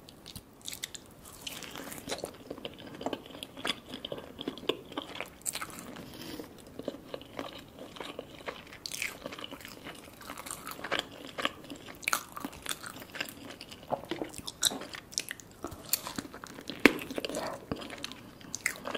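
Close-miked biting and chewing of a tandoori chicken drumstick: irregular crunchy bites and wet mouth clicks.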